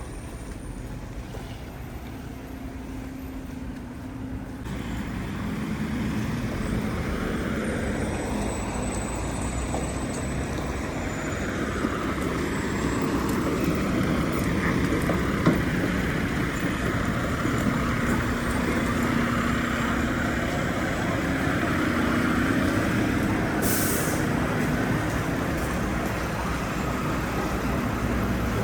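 City street traffic with a heavy vehicle running close by, its noise building from about five seconds in. There is a short hiss near the end.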